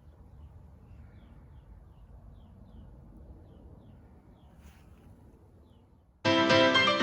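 Faint outdoor ambience with a bird giving a string of short, high, falling chirps. About six seconds in, music starts abruptly and much louder.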